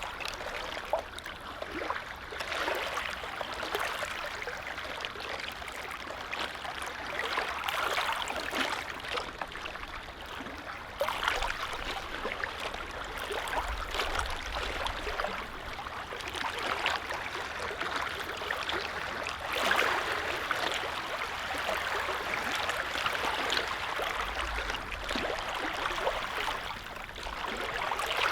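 Small lake waves lapping at the shore: a steady wash of water full of little splashes, swelling and easing every few seconds.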